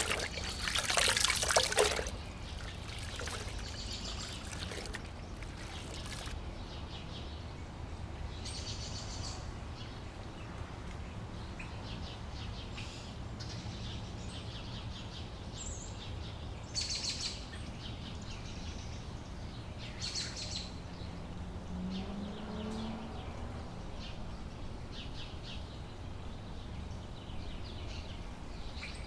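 Outdoor ambience by shallow water: a loud stretch of water splashing in the first two seconds, then birds chirping now and then over a steady low hum.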